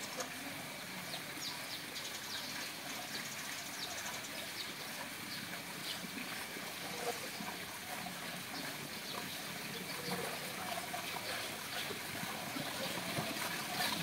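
Faint, scattered high-pitched bird chirps over a steady background hiss.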